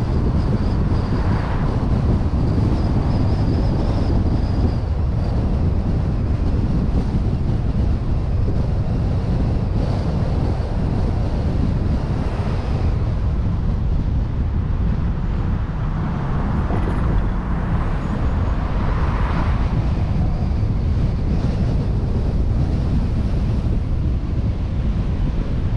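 A vehicle driving at steady speed: a continuous low road-and-engine rumble, with wind rushing over the microphone of a suction-cup-mounted action camera.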